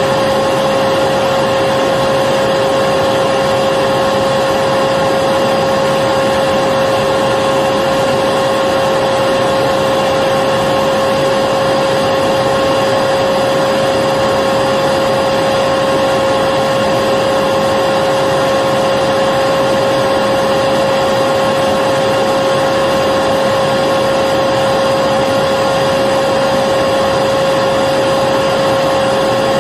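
Electric vacuum cleaner running continuously, a steady motor whine with a constant pitch over a rushing of air, without change.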